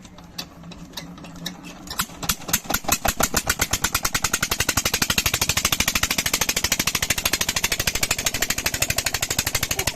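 Old Petter diesel engine starting: a few separate knocks, then its firing beats quicken about two seconds in and settle into a fast, steady exhaust beat as it runs up to speed.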